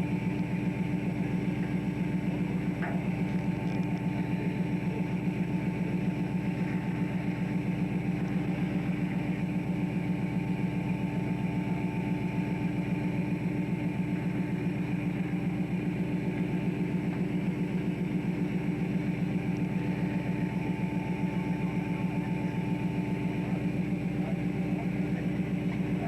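Fishing boat's engine running steadily, a constant drone with a fast, even throb and a steady hum.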